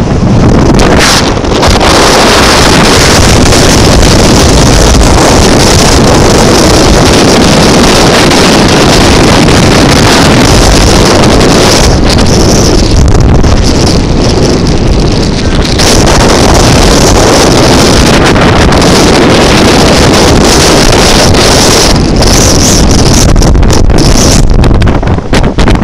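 Strong blizzard wind blasting across the microphone: loud, continuous buffeting that barely lets up, easing only slightly for moments.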